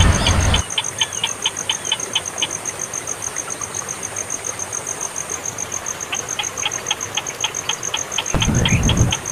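A baby bird chirping in runs of short, evenly repeated calls, about four a second, over a steady, fast, very high-pitched ticking. A low rumble sounds at the start and again shortly before the end.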